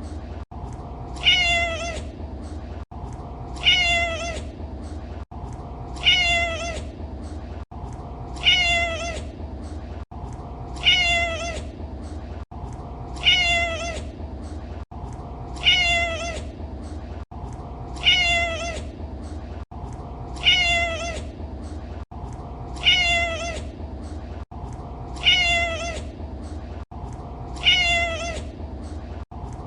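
Domestic cat meowing: the same short meow repeats identically about every two and a half seconds, about a dozen times, as a looped recording with a brief gap at each seam. A steady low hum runs underneath.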